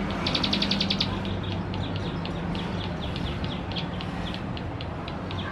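Male ciblek sawah (plain prinia) singing: a fast trill of repeated high, sharp notes in the first second, then slower separate chips, a few a second. A steady low hum runs underneath.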